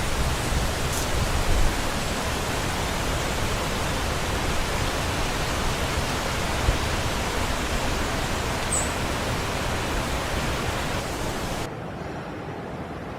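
A steady, even rushing noise with one brief high chirp about two-thirds of the way through. Near the end the hiss of the noise drops away suddenly and it turns duller and quieter.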